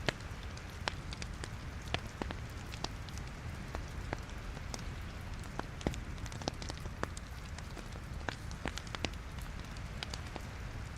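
Wood fire burning in a fireplace: burning logs crackling with many irregular sharp pops over a steady low rumble and hiss of the flames.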